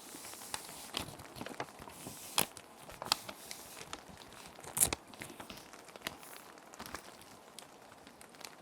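Plastic sheet protectors crinkling and rustling as paper sheets are slid into them and handled, in scattered sharp crackles, the loudest about two and a half and five seconds in. A steady hiss of rain runs underneath.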